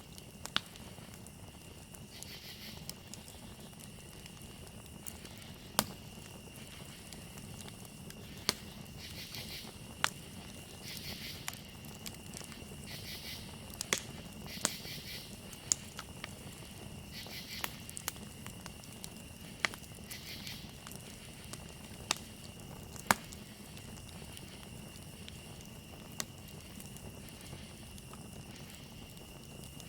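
Campfire crackling, with sharp pops every couple of seconds over a low steady rush of burning wood. Behind it is a steady high cricket trill, joined by pulsing bursts of insect chirping that come and go.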